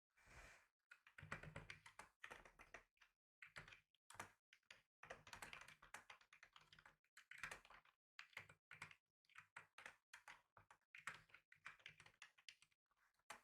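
Quiet typing on a computer keyboard: rapid, irregular key clicks in runs, broken by short pauses.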